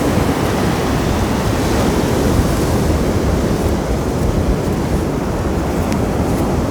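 Sea surf washing steadily on the beach, with wind buffeting the microphone.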